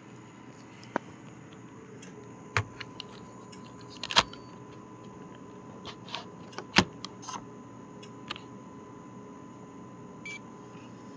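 Scattered light clicks and knocks of tableware being handled, such as a spoon or chopsticks against dishes, over a steady low hum. The loudest knocks come about four and seven seconds in.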